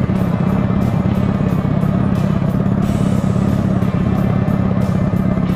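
Harley-Davidson Dyna's air-cooled V-twin engine running steadily under way at a cruising speed.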